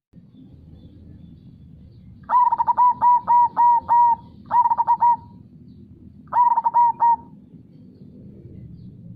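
Zebra dove (perkutut) singing its cooing song: a quick run of about seven notes, then two shorter phrases of about four notes each. Underneath is a low, steady rush of flowing river water.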